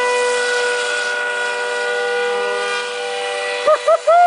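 Radio-controlled model speedboat motors whining steadily at a high, even pitch. Near the end, three short, loud tones rise and fall in pitch over the top.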